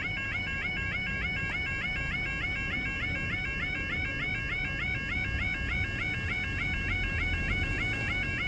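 UK level crossing yodel alarm sounding without a break, a rapid two-tone warble repeating several times a second. It keeps going because the crossing has failed with a barrier stuck down.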